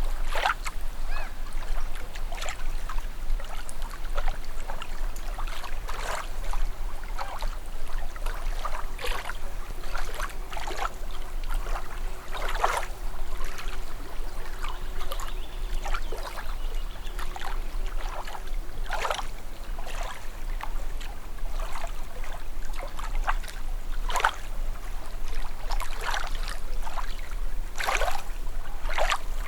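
Small waves lapping at a calm shoreline, with soft splashes every second or two over a steady wash of water.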